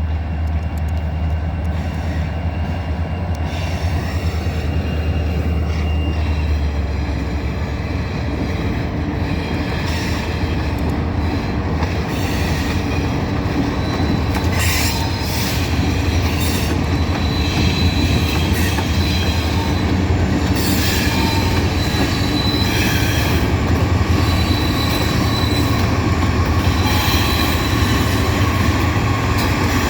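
A loaded corn train rolling past: the wheels of the cars squeal on the rails and clack over the rail joints. A steady low drone fills the first several seconds, and the sound grows a little louder past the halfway mark.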